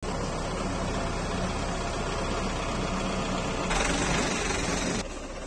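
Tractor engine running steadily, with a louder rush of noise for about a second near the end before the sound drops off suddenly.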